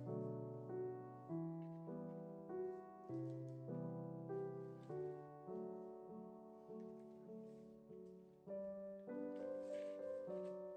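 Background piano music: soft, steady chords with a regular beat of note onsets.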